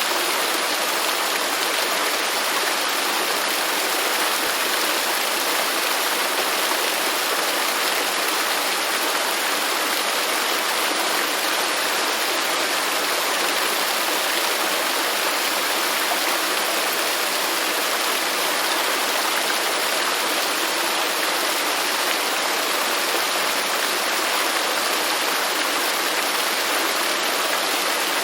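Waterfall: a steady, unbroken rush of falling water, bright and hissy, with little deep rumble.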